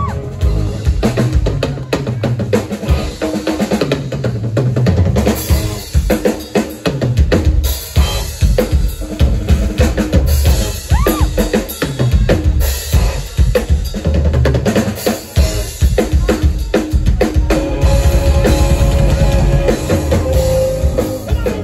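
Drum kit played live as a solo, bass drum and snare strokes coming fast and continuously. A held note joins near the end.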